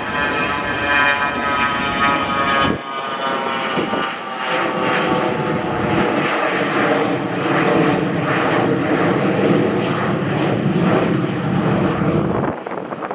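A passing airliner's engines running close by: a loud, steady whine made of several stacked tones. About three seconds in, the tones drop lower and stay there.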